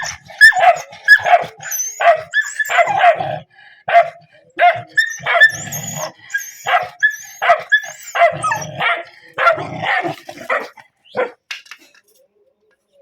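A dog barking over and over, a rapid string of short barks at about two a second, with a brief pause partway through; the barking stops about a second before the end.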